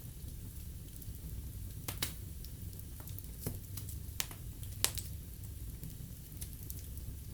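Wood fire burning in a fireplace, with a low steady rumble of flames and scattered sharp crackles and pops, the loudest about two and five seconds in.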